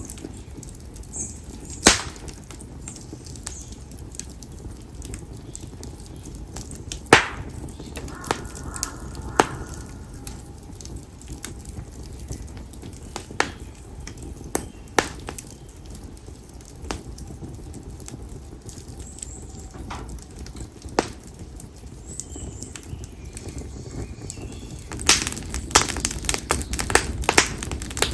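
Split konara oak firewood burning in an open fire: a low steady rush of flame broken by sharp, scattered pops, the loudest about seven seconds in, and a quicker run of crackling near the end.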